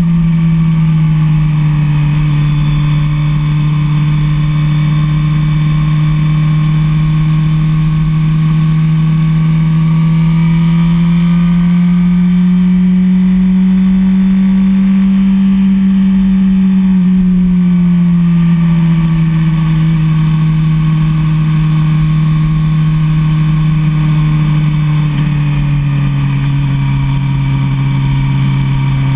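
Suzuki SRAD 1000 sport motorcycle engine running at a steady cruise. Its pitch rises gently for a few seconds midway, eases back down, and dips a little lower near the end.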